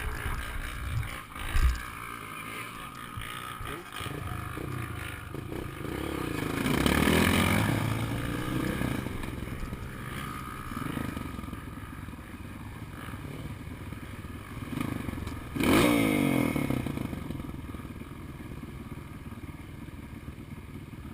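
Off-road dirt bike engines revving on a trail, swelling loudest about seven seconds in and again, sharply, with a rising and falling pitch about sixteen seconds in.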